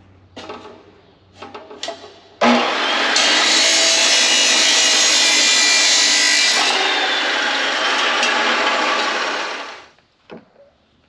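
A few light clanks, then a handheld power tool starts abruptly and runs steadily on the tractor's metal exhaust for about seven seconds before winding down.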